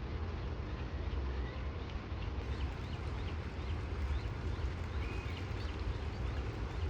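Outdoor ambience: a steady low rumble under scattered short, faint high chirps, typical of small birds.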